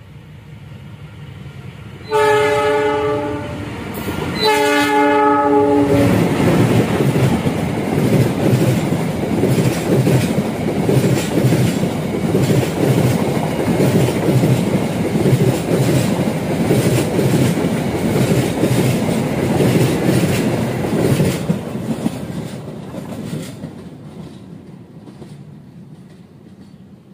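Diesel locomotive hauling a long-distance passenger train approaches at speed and sounds its horn in two blasts, about two and four and a half seconds in. The locomotive and stainless-steel coaches then pass close by with a loud clickety-clack of wheels on the track, which fades away over the last few seconds.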